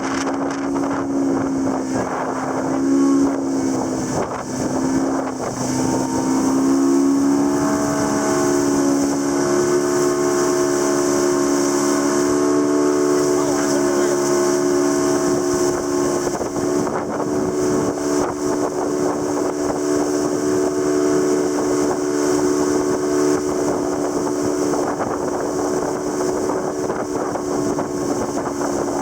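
Motorboat engine running at speed, its pitch wavering over the first few seconds and then rising about seven seconds in to hold a steady higher drone, with wind and water rush over the microphone.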